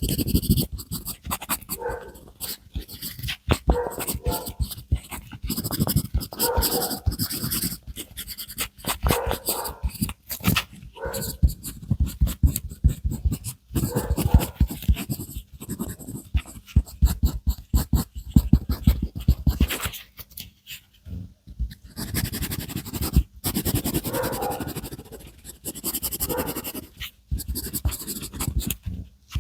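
Rapid, irregular scratching and tapping strokes of a drawing or painting tool on paper, close to the microphone, with brief pauses between runs of strokes.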